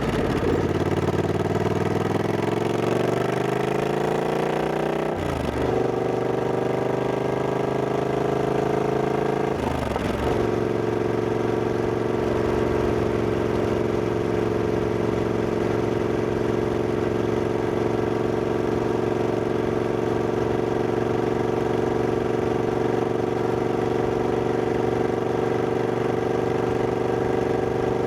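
Triumph Scrambler 1200X's parallel-twin engine pulling hard as the motorcycle accelerates, its pitch rising through a gear, a short dip at an upshift about five seconds in, rising again, then another upshift about ten seconds in. After that the engine holds a steady pitch at a constant cruising speed.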